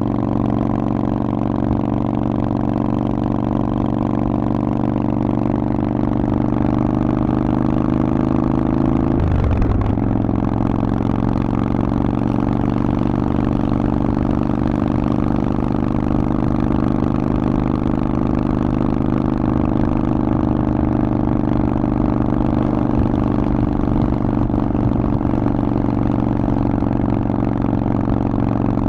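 Harley-Davidson Forty-Eight's air-cooled 1200 cc V-twin running steadily through a Vance & Hines exhaust. Its pitch sags slowly, then dips sharply about nine seconds in and settles back to a steady note.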